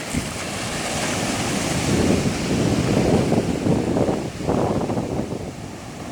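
Sea waves surging and washing up the beach, swelling to their loudest in the middle, with wind buffeting the microphone.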